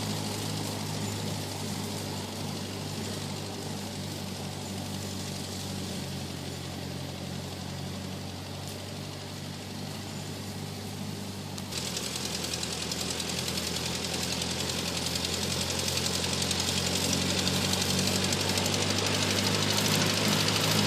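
Tractor engine running steadily; about twelve seconds in it turns suddenly louder and harsher, then keeps getting louder toward the end.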